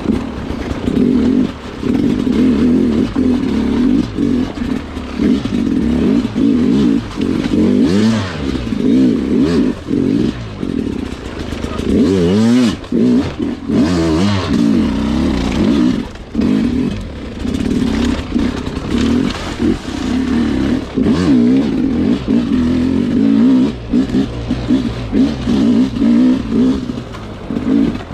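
Sherco two-stroke dirt bike engine revving up and down again and again as the throttle is worked, with several short drops in revs and some clatter.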